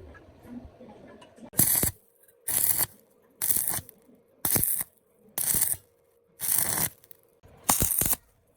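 Seven short scraping or rasping strokes at an even pace of about one a second, with a pause after each.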